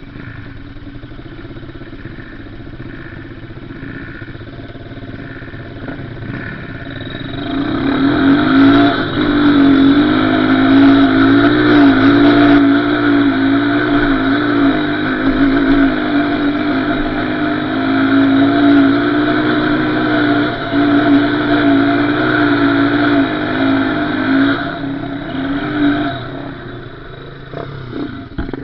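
Small off-road engine running, getting louder about seven seconds in and holding a high, wavering pitch, then easing back near the end.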